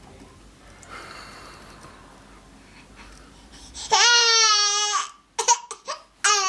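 A baby crying: after a few seconds of low room noise, a loud, high-pitched wail lasting about a second, a few short sounds, then another wail starting near the end.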